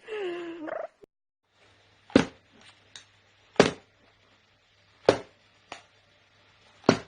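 A bird's short, sharp calls, one every second or so, over a low steady hum, after a brief gliding cry at the start.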